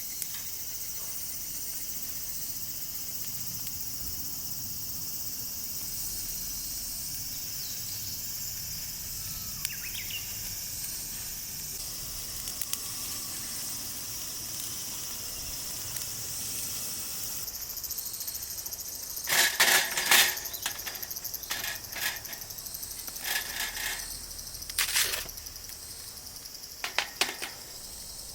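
Insects trilling steadily and high-pitched in the background. From about two-thirds of the way in, a series of short, loud, sharp sounds comes in irregular clusters.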